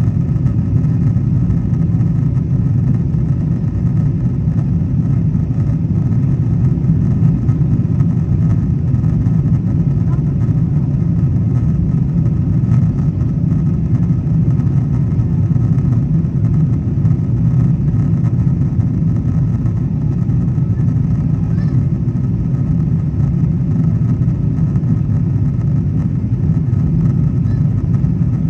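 Steady low roar of jet engine and airflow noise inside the economy cabin of a Boeing 777-200ER climbing after takeoff, with a faint steady whine above it.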